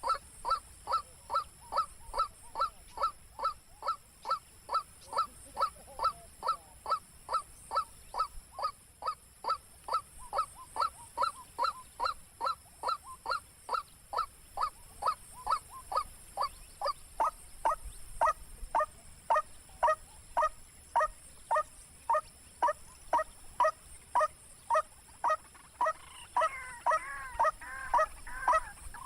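White-breasted waterhen (ruak-ruak) calling: a harsh honking note repeated very evenly about two to three times a second, slowing slightly past the middle. Near the end a second, more tangled call overlaps it.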